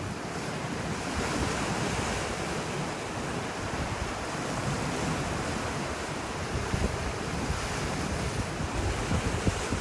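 Sea waves washing in steadily, with wind buffeting the microphone in gusts in the second half.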